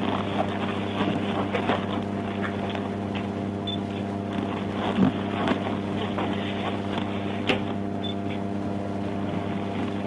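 Steady low hum of an idling vehicle engine, with a few faint clicks and knocks.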